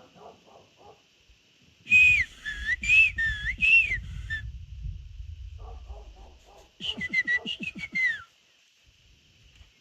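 A man whistling bird-like calls: a run of loud swooping notes that glide up and down, then after a pause a quick trill of short high notes.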